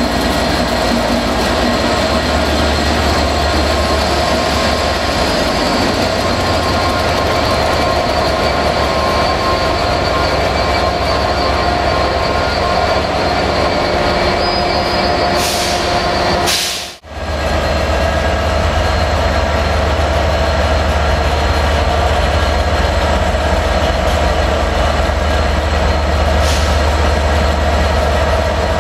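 A train running steadily: a constant low hum with a few steady whining tones. It cuts out for a moment about two-thirds of the way through and then comes back.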